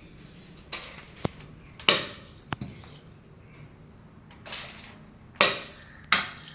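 A handful of short, sudden rustling or scraping noises, each fading quickly, with two sharp clicks between them: things being handled at close range.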